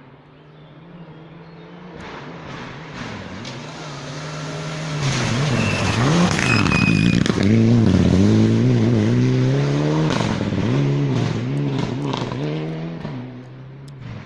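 Rally car engine approaching at full throttle, getting steadily louder. Its revs rise and drop repeatedly with gear changes and lifts as it passes, loudest about halfway through, then it fades away.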